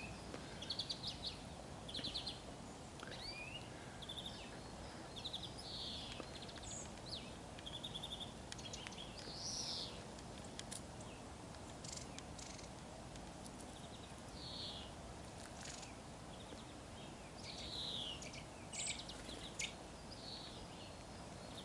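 Small wild birds chirping: short high calls scattered throughout, over a faint steady background, with a few sharp clicks.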